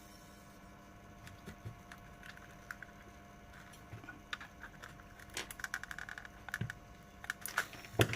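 Small clicks and rattles of the opened tyre inflator's plastic casing and parts being handled, with a quick flurry of clicks about two thirds through and a few sharper clicks near the end.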